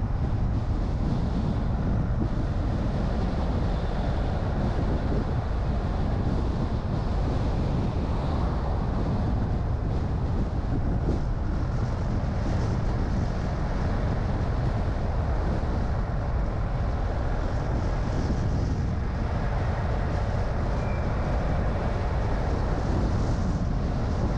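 A car driving at steady speed: an even, low rumble of road and engine noise that does not change.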